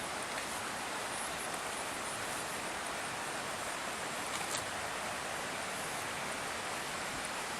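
Steady rushing of water flowing along an irrigation canal, with a small tick about four and a half seconds in.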